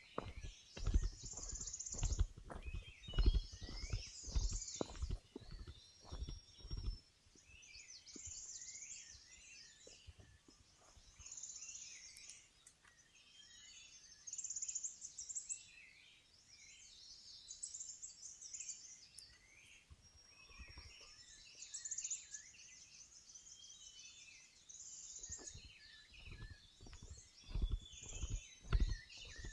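Footsteps on a forest trail for the first several seconds and again near the end, with wild birds singing throughout; a high chirping phrase repeats every few seconds.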